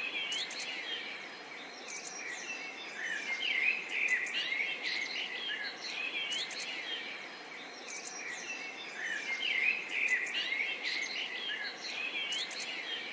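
Several small birds chirping and twittering over a steady background hiss, with a similar run of calls coming back about every four seconds.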